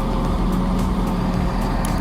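Heavy truck engine running steadily, with a low held drone.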